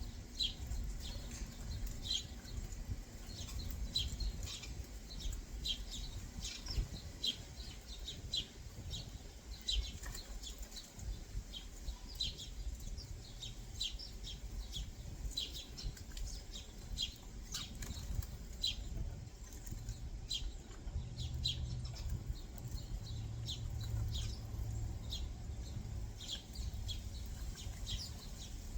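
Backyard songbirds giving many short, sharp chirps in quick succession throughout, over a low background rumble that swells about two-thirds of the way through.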